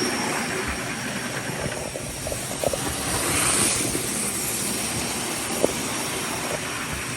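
Train running along the track: a steady rushing noise with a few light clicks.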